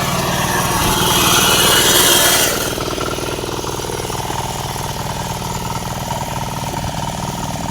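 Small diesel engine of a reaper running steadily. For the first two and a half seconds a loud hissing rush sits over it, then stops.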